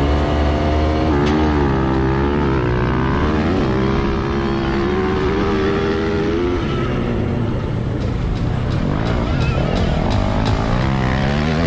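Dirt bike engine revving, its pitch rising and falling again and again, with a gap in the revving about two-thirds of the way through before it picks up again near the end.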